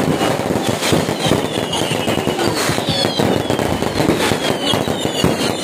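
Fireworks display: a dense, continuous barrage of bursting shells and crackling stars, with several short high whistles falling in pitch.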